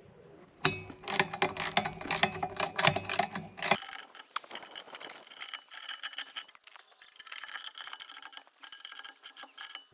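Ratchet wrench clicking in rapid runs, tightening a nut down onto a split washer on a loose bolt.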